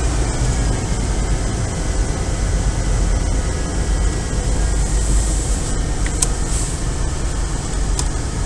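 1994 Ford F250's engine idling steadily, with a few light clicks in the second half.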